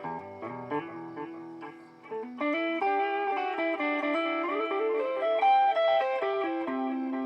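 Electric guitar played through a BOSS DD-8 Digital Delay pedal in Warp mode: picked notes ring on into long, overlapping echoes, and the playing grows louder and denser about two seconds in.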